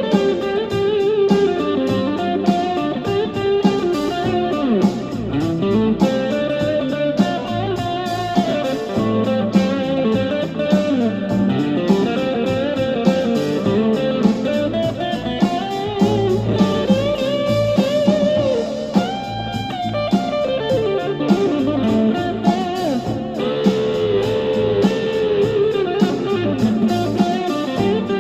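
Electric guitar improvising a blues solo over a D minor blues backing track with a steady drum beat: minor pentatonic licks with string bends and vibrato.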